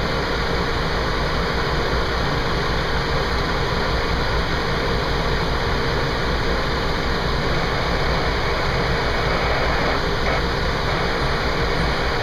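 Fire engine's engine running steadily with a constant low rumble.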